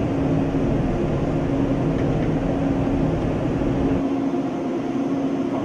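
Jet engine running steadily in a test cell, a loud drone with several held tones. The deep rumble underneath drops away about four seconds in while the higher tones carry on.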